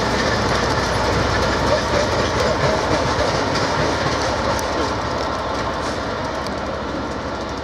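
Passenger train rolling away over pointwork, its wheels clattering over the rail joints, with the Class 67 diesel locomotive on its rear end. The sound fades slowly as the train draws away.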